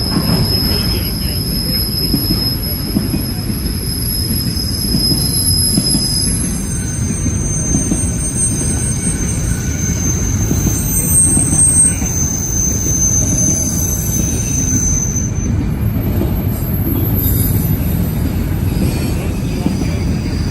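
Railroad cars rolling past with a steady rumble, their steel wheels squealing in several long, thin, high-pitched tones that die away about three-quarters of the way through.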